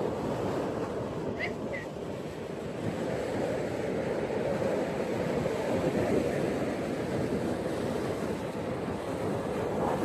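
Gentle ocean waves washing onto a beach, a steady surf wash that swells a little a few seconds in. Two brief high chirps sound about one and a half seconds in.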